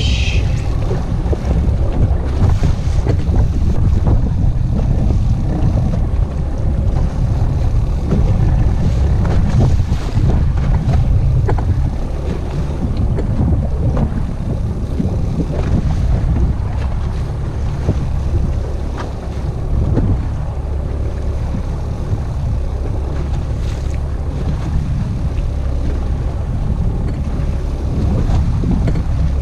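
Boat motor running steadily while trolling at low speed, a constant low rumble, with wind buffeting the microphone.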